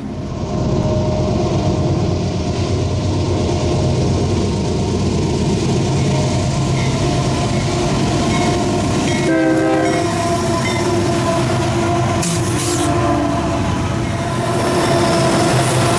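A diesel-hauled freight train running by, with steady locomotive engine drone and rumble. A brief horn note sounds about nine seconds in.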